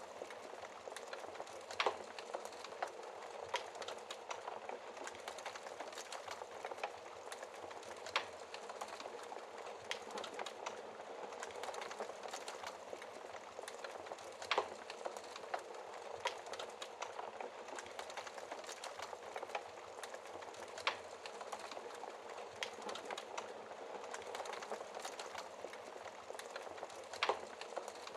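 Wood fire of burning logs crackling, with a steady hiss of rain underneath; many small crackles and a sharper pop about every six seconds.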